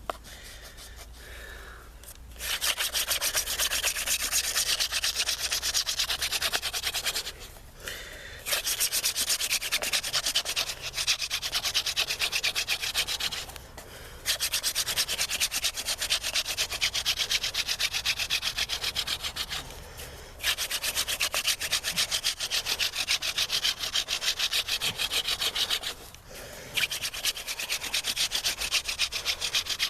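Hand-drill friction fire: a horseweed spindle spun back and forth between the palms, grinding into a willow hearthboard in a steady, fast rubbing rhythm. The rubbing comes in long runs, broken by four short pauses.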